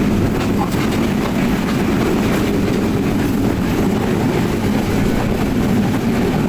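Steady rumble of a moving passenger train, its wheels running on the rails with faint irregular clicks.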